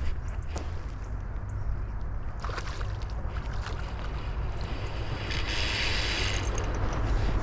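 Wind on the microphone: a steady low rumble, with two louder rushes of hiss about two and a half and five and a half seconds in.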